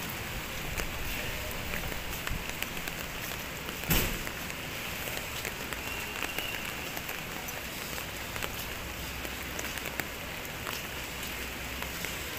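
Light rain falling: a steady hiss with scattered drops tapping close by, and a single louder knock about four seconds in.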